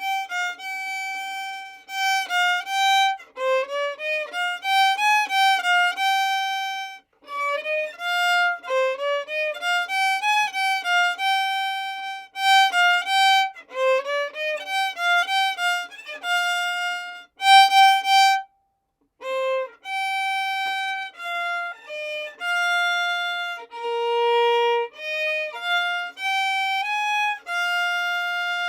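A single violin playing a melody with a separate bow stroke on each note. Quick up-and-down runs fill the first part; after a short break about two-thirds of the way through, the notes are longer and held.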